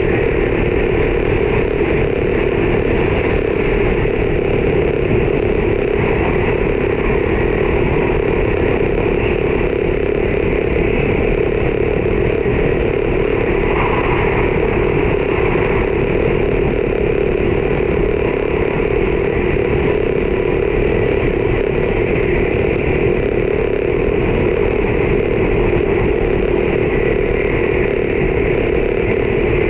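Steady running noise inside an E4 series Max double-decker Shinkansen car at speed: an even, loud rumble of wheels on rail and rushing air with a constant drone.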